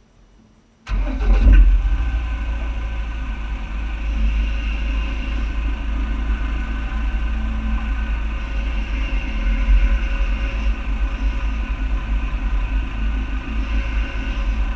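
A vehicle engine starts about a second in, then runs steadily with a deep rumble as the vehicle moves slowly forward.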